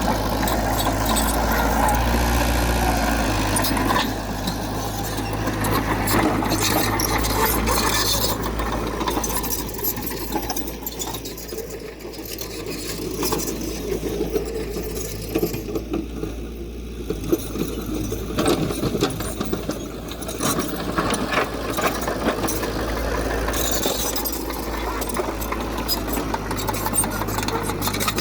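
Diesel engine of heavy earthmoving machinery running steadily, with rattling and clanking that come and go.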